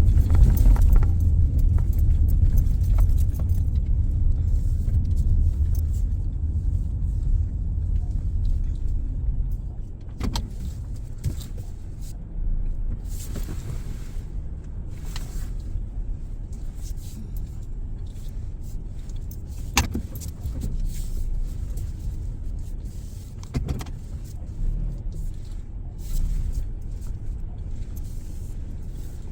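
A car's low rumble, loudest at first and easing off after about ten seconds, then a quieter steady background with a few sharp clicks and knocks.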